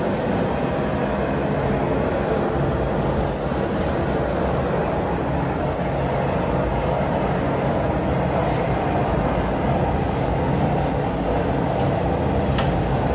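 Blacksmith's forge running: a steady, loud rushing noise with no hammer blows.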